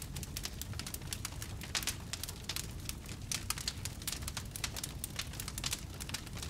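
Wood fire in a fireplace crackling: a dense, irregular run of small snaps and pops over a low, steady rumble, with a few sharper pops among them.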